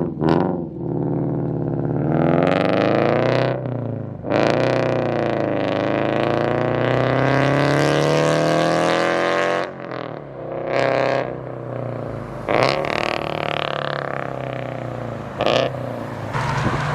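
Scion FR-S's FA20 flat-four engine with unequal-length headers, a catless front pipe and a Tomei 80R cat-back exhaust, loud, with the uneven Subaru-style rumble. It revs briefly, then pulls in one long rising run of about five seconds that cuts off suddenly when the throttle lifts, followed by lower, uneven running with a few short blips.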